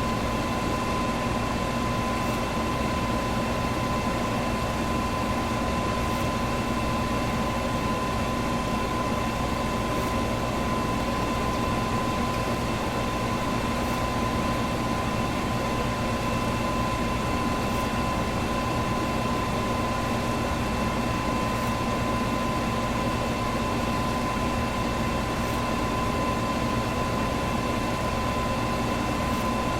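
Electric fan running steadily: a constant rush of air with a steady hum under it.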